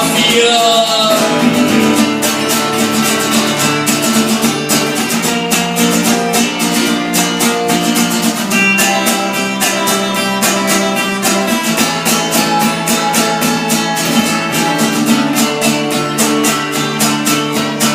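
Instrumental passage of an acoustic folk-rock song: an acoustic guitar strummed in a steady rhythm over sustained chords. A sung note trails off in the first second.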